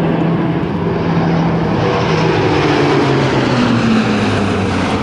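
Lockheed Martin C-130J-30 Hercules making a loud high-speed pass, its four Rolls-Royce turboprop engines and six-bladed Dowty propellers droning. The propeller drone falls steadily in pitch as the aircraft goes by.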